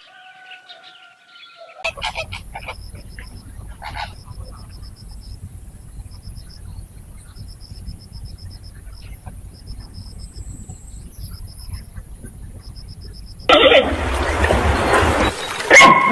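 Waterfowl honking loudly for about two seconds near the end, after a quiet stretch with a short high chirping that repeats every second or so.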